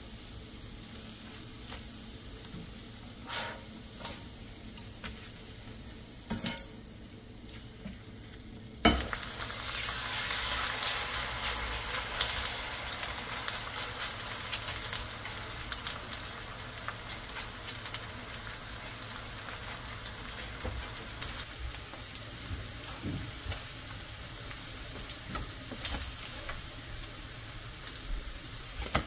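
Food frying in oil in a pan: a low sizzle with a few light taps, then a sudden much louder sizzle about nine seconds in, as if something new went into the hot oil, slowly settling.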